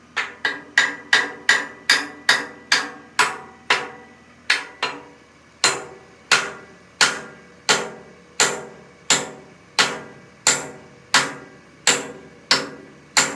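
Hammer striking metal over and over, each blow ringing briefly. The blows come quickly, about three a second, for the first few seconds, then settle to one roughly every 0.7 s.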